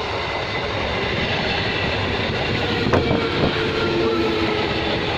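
Modern ICF Medha electric multiple unit (EMU) local train passing close by, its wheels running steadily on the rails, with a sharp knock about three seconds in.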